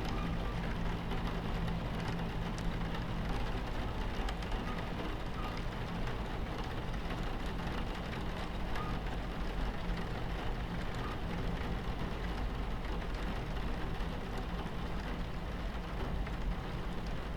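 Steady low rumble of a train running on its tracks, heard from inside the carriage, mixed with rain falling against the window.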